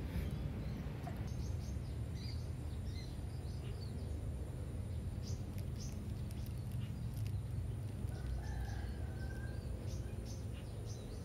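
Outdoor ambience: a low steady rumble with faint scattered bird chirps, and one longer held bird call from about eight seconds in, lasting a second and a half.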